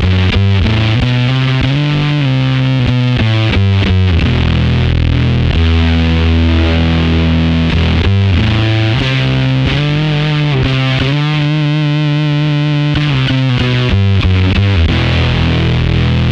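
Electric guitar played through a BOSS FZ-1w fuzz pedal: thick, distorted held low notes alternating with quicker single-note runs, with a wavering, vibrato-shaken held note around the middle.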